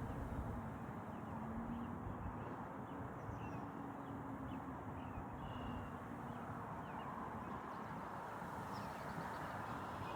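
Steady outdoor background noise with faint, scattered short bird chirps and a faint low hum in the first half.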